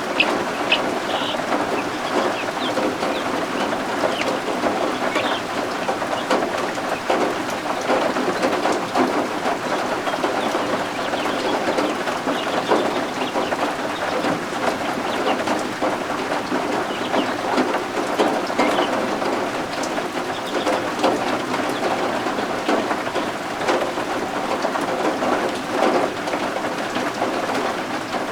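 Steady rain falling, a dense even patter, with a few short high peeps from baby guinea fowl (keets) in the first second or so.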